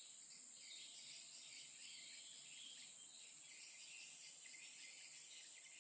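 A faint, steady, high-pitched insect chorus, with fainter uneven chirring somewhat lower in pitch.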